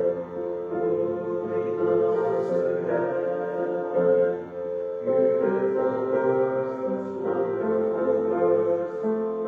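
Slow music of held chords, most likely a keyboard instrument playing, with the chord changing every second or so.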